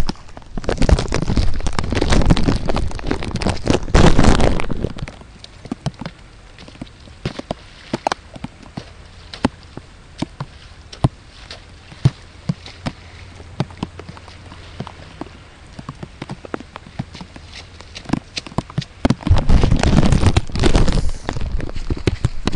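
Rain falling, with many separate drops tapping sharply close to the microphone. A loud rushing noise covers the first few seconds and comes back near the end.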